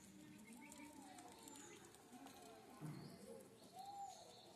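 Faint animal calls: a few soft, rising-and-falling tones with short high chirps, and a low thump about three seconds in.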